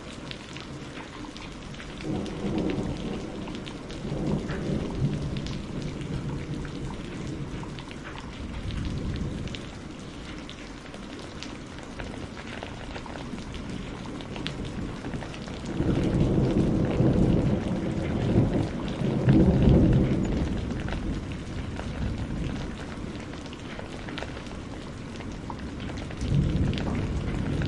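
Steady rain falling, with rolls of thunder rumbling low several times; the longest and loudest roll comes about two-thirds of the way through.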